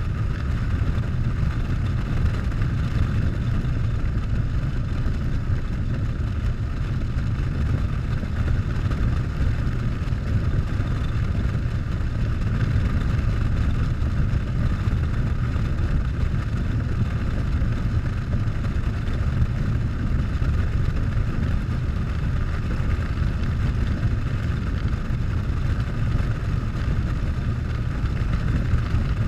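Harley-Davidson Softail's V-twin engine running steadily while riding, with a constant rush of wind and road noise.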